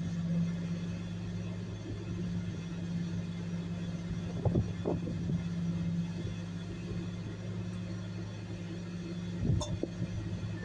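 Garbage truck engine running steadily with a low hum, with a few short knocks about halfway through and again near the end.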